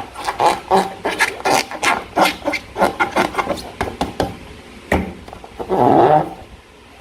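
Slime being squished and worked by hand, making a quick run of short, sticky clicking squelches, with one louder, longer squelch about six seconds in.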